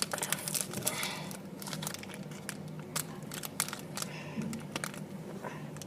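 Plastic wrapper of a Galaxy white chocolate bar crinkling and tearing as it is opened: a run of irregular sharp crackles and clicks.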